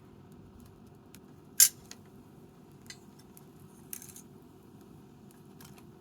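Wood bonfire crackling, with a few sharp pops from the burning wood, the loudest about a second and a half in. Under them runs a steady low background noise.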